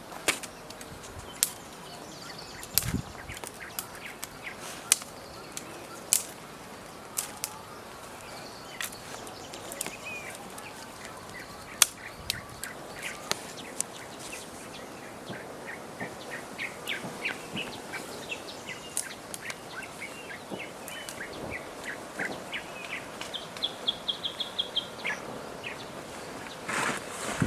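Small birds chirping in short, high calls, with a fast run of high notes near the end, over a steady outdoor hiss; scattered sharp clicks and snaps come and go throughout.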